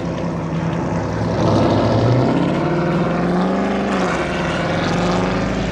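Audi S4's engine running at low speed as the car creeps along, a steady drone whose pitch rises briefly about three seconds in and then drops back.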